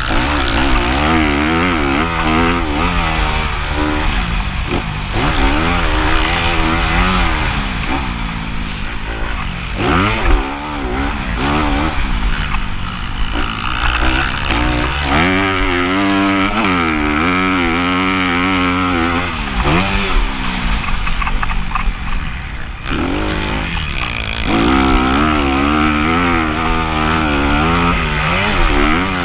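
Motocross dirt bike engine racing on a track, its revs rising and falling over and over as the rider works the throttle, with a steady low rumble underneath.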